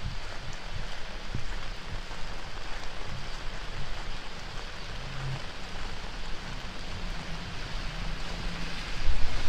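Heavy rain falling steadily in a dense, even hiss. About nine seconds in, a low rumble of wind buffeting the microphone grows louder.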